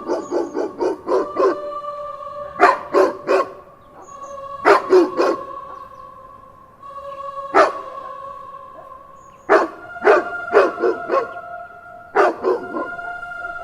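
Dog barking in quick bursts of two to five barks, with pauses of a second or two between bursts and a single bark in the middle. A steady eerie music drone runs underneath and shifts up in pitch a little over halfway through.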